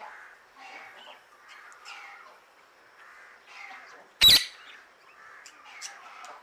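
A bird gives a single loud call about four seconds in, over quieter scattered chirps and calls of birds.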